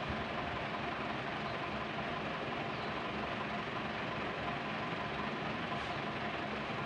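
A steady engine-like hum under an even hiss, holding level throughout.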